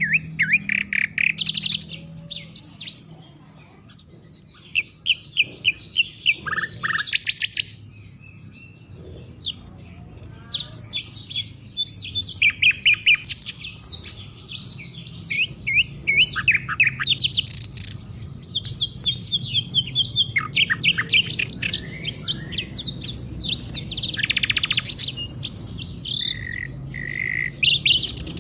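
African songbirds singing together in quick runs of chirps and whistled sweeping notes that overlap. There is a brief lull a few seconds in and a longer one around a third of the way through, before the singing thickens again.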